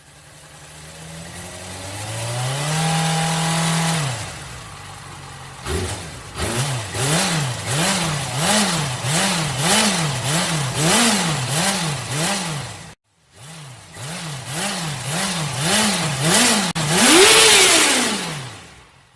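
Motorcycle engine revving: one long rev that rises, holds and falls, then a run of quick throttle blips about one and a half a second. After a brief break come more blips and a final high rev that dies away.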